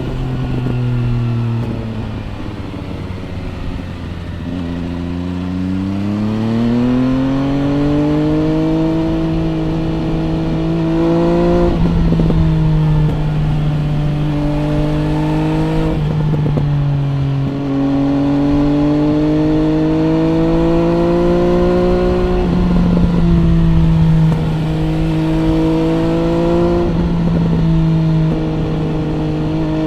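MV Agusta Brutale 800 RR's three-cylinder engine through an MV Agusta Corse trio exhaust, heard onboard while riding. The engine note climbs steadily for several seconds, then holds, with about five brief breaks and pitch drops as gears change.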